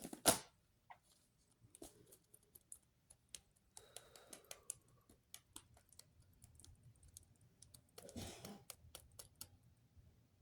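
Scattered light clicks and taps, much like typing on a keyboard, with a sharper noise just after the start and soft rustling about four and eight seconds in.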